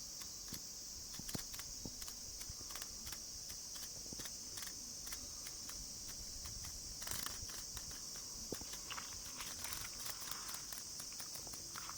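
Cicadas shrilling in a steady high-pitched drone, with scattered faint clicks and ticks throughout and a short louder rasping burst about seven seconds in.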